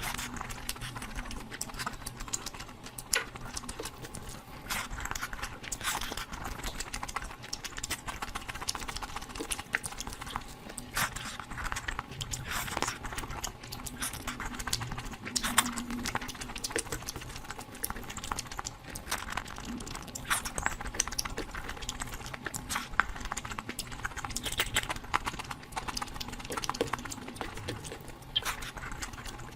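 Close-miked eating sounds: a person chewing and smacking while eating curry, an irregular patter of short wet clicks and smacks.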